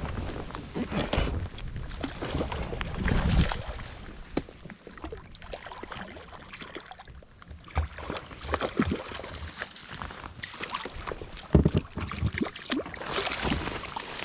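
Water sloshing against a small fishing boat, with irregular knocks and rustles of handling.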